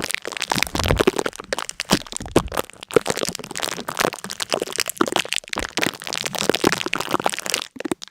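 Dense, rapid crackling and crunching: many sharp cracks packed closely together without pause, with a brief break just before the end.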